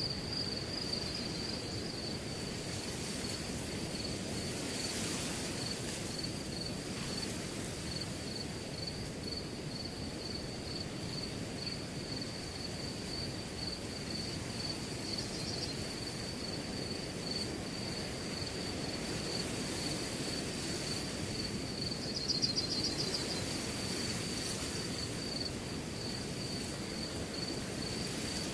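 A cricket chirping in a steady, fast-pulsing trill over the even rush of wind through grass. About two-thirds of the way in there is a brief, louder flutter of extra chirps.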